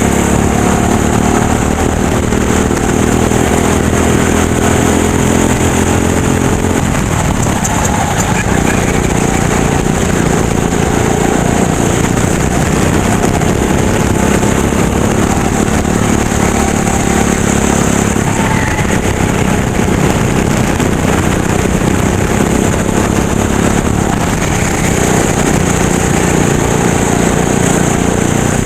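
Racing kart engine running hard through the laps, its pitch falling as the throttle lifts into corners and rising again on the straights, with a clear dip about seven seconds in.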